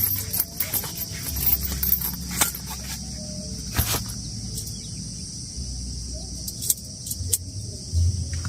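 Steady high insect chorus outdoors, with scattered sharp clicks and light knocks and a low rumble underneath.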